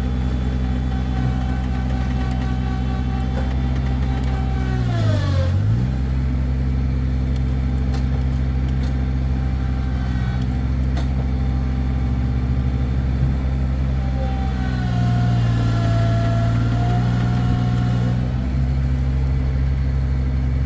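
Vehicle engine running steadily during a mud recovery; its pitch dips sharply and recovers about five seconds in, and it grows a little louder for a few seconds around fifteen seconds in.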